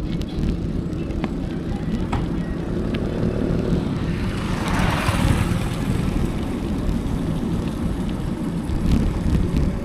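Wind rumbling on a bike-mounted action camera's microphone while riding, with a hissing swell that rises and fades about halfway through.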